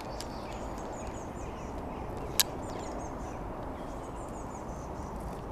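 Birds chirping faintly outdoors over a steady low background noise, with a single sharp click a little over two seconds in.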